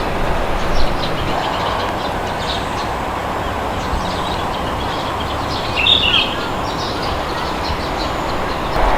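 Steady wind rushing, with small birds chirping faintly throughout and one louder bird call about six seconds in.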